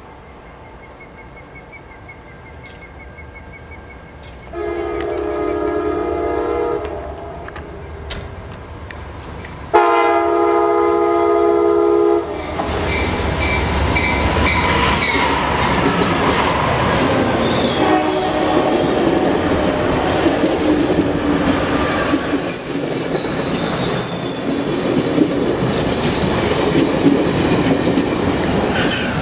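Amtrak diesel locomotive sounding two long horn blasts of several notes at once, the second louder. The train then runs past close by with a heavy rumble and high-pitched wheel squeal.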